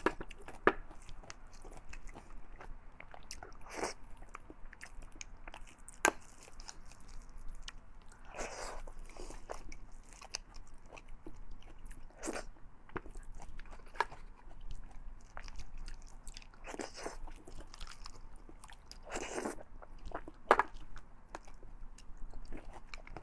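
Close-miked chewing and biting of fatty beef and beef bone marrow: scattered sharp wet mouth clicks, with a few longer, half-second wet sounds.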